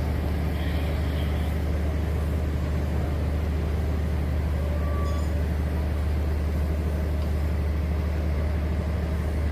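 A ship's engine running steadily under way, a constant low drone with an even rushing noise over it.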